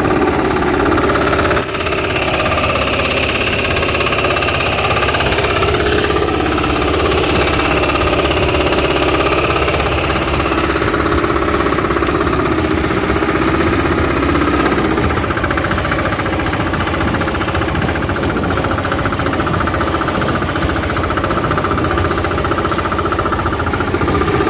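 Engine of an AC-10 farm machine running steadily with a fast, even pulsing beat, dipping briefly about a second and a half in.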